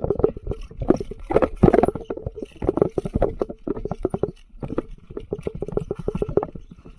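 Mountain bike clattering over rough, rocky trail, with a dense run of irregular knocks and rattles over a steady low rumble.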